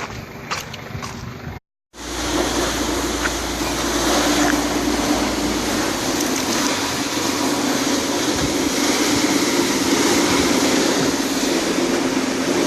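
Scania R440 truck running with a few sharp knocks, then, after a brief cut, a steady loud rushing noise with a droning hum as the truck's equipment fills a jumbo bag.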